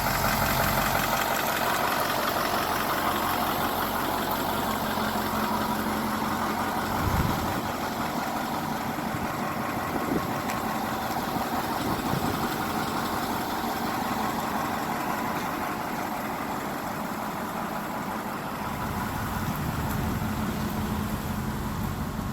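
1987 Ford F800 fire truck's engine idling steadily. Its low note drops away for a stretch in the middle and comes back near the end, with a single thump about a third of the way in.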